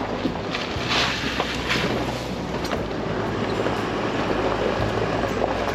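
Chevy Colorado ZR2 AEV Bison pickup driving on a gravel road: a steady low engine hum under tyre noise on the gravel, with scattered clicks of stones.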